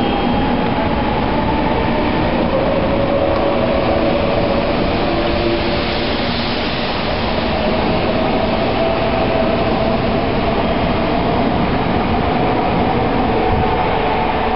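Tokaido Shinkansen train pulling out along the platform: a steady rush of wheel and air noise, with a motor whine that rises slowly in pitch as the train gathers speed.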